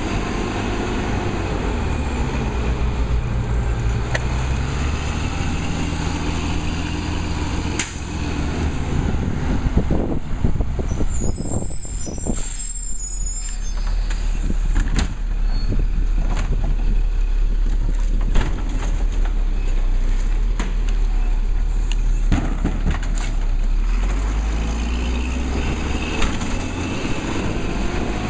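Labrie Cool Hand garbage truck running, its engine note changing and deepening through the middle, with scattered sharp hisses and knocks.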